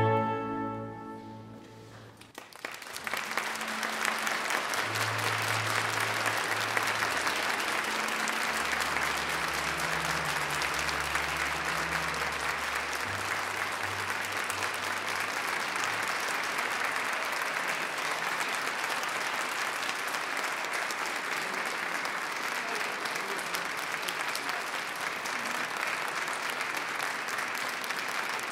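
Last orchestral chord dying away in a reverberant church over about two seconds, then audience applause that starts and goes on steadily.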